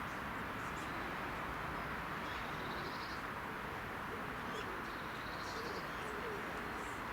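Small birds calling: two short high twittering phrases, about two and a half and five seconds in, with scattered faint high chips, over a steady outdoor hiss.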